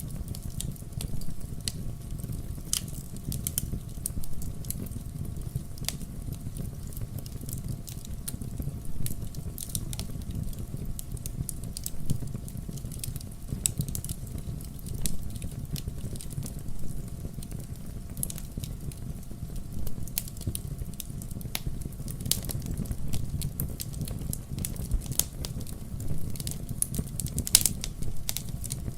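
Fireplace fire crackling, with many sharp irregular pops over a steady low rumble of the flames.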